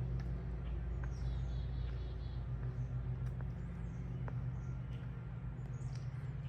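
A steady low hum with a few light clicks, and faint high chirps of small birds about a second in.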